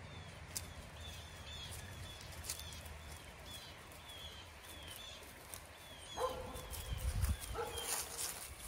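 Faint outdoor scene: a small bird repeats a short falling chirp a few times a second, over light rustling and padding of Great Pyrenees puppies moving through dry grass and fallen leaves. About six and seven and a half seconds in come two brief drawn-out calls.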